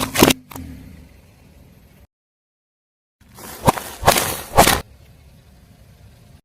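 Car tyre rolling over and crushing objects: a burst of sharp crunching cracks, then a low rumble, and after a short gap a second crush with three loud cracks about half a second apart.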